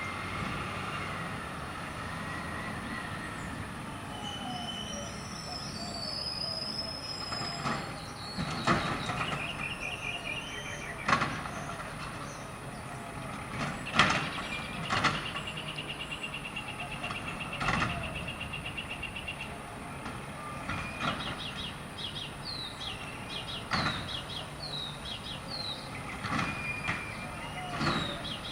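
Automated side-loader garbage truck working: the engine runs steadily under a series of loud metallic bangs a few seconds apart, as from carts being tipped and knocked against the hopper. A steady high hydraulic whine comes in about halfway through.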